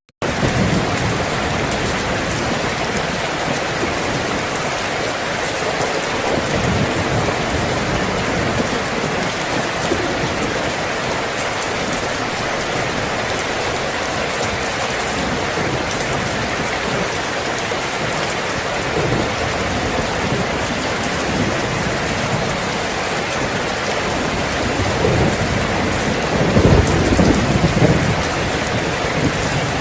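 Steady heavy rainfall, a dense even hiss of rain hitting surfaces, with a low rumble of thunder swelling near the end. The sound cuts out for a split second just after the start.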